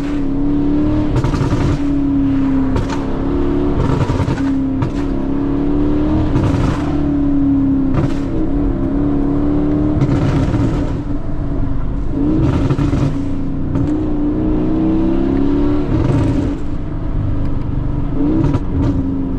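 Car engine running and revving as it is driven, its note rising and falling, with sharp exhaust pops and crackles every second or two.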